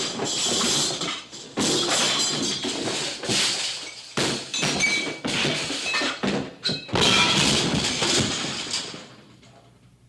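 Cartoon slapstick sound effects: a series of loud crashes and thumps over the soundtrack music. They die away near the end.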